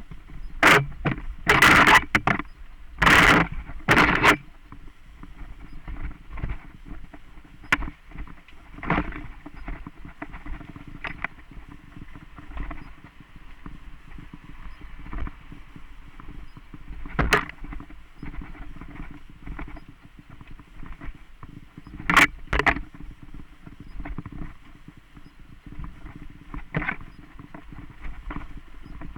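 Mountain bike riding over a dirt trail: steady rolling noise with sharp knocks and rattles over bumps. The knocks cluster in the first few seconds and come back twice later, with single loud jolts.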